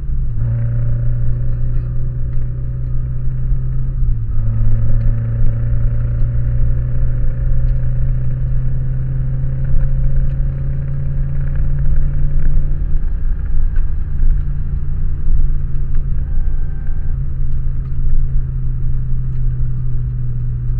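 Toyota Corolla AE86's 20-valve 4A-GE four-cylinder engine running hard at track pace, heard from inside the cabin. Its note drops abruptly at gear changes right at the start and about four seconds in, then drones steadily down the straight with another drop in pitch about two-thirds of the way through.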